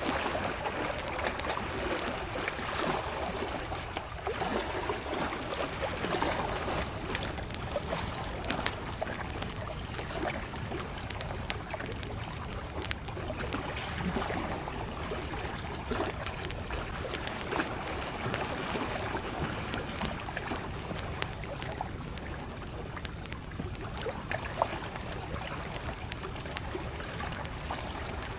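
Small lake waves lapping in gentle swells against the shore, with a campfire crackling and giving off scattered sharp pops throughout.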